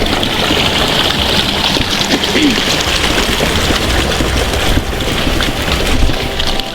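Floodwater rushing in a steady, dense hiss.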